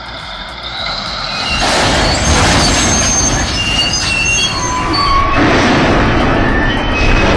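Heavy earthmoving machinery running hard, with metal grinding and short high-pitched squeals over a loud, rumbling noise that builds up about a second and a half in.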